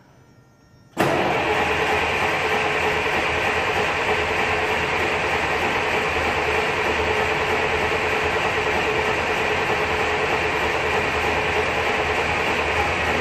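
Leyland 510 straight-six diesel engine of a Leyland National Mk1 bus firing up about a second in on a cold start, then running steadily.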